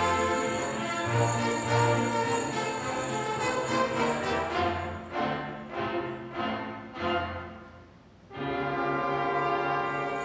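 Small orchestra of strings and brass playing a Christmas piece: held chords, then a run of short, separate notes that fade. After a brief pause about eight seconds in, a new held chord enters.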